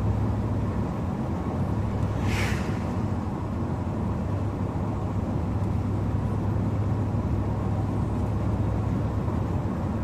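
Chevrolet Camaro Z28's V8 engine and road noise heard from inside the cabin while driving: a steady low drone. A short hiss cuts in about two seconds in.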